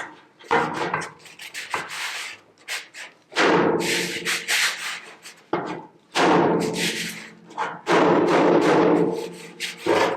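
Long rubbing strokes on a steel car bonnet panel as a dent is worked from the inside, three drawn-out strokes in the second half with the panel ringing along under them.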